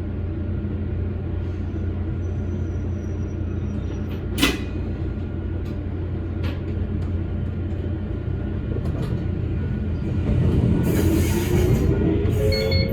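Electric train's steady low rumble and hum, with a single sharp click about four and a half seconds in. Near the end a motor whine rises in pitch, with a hiss, as the train gathers speed.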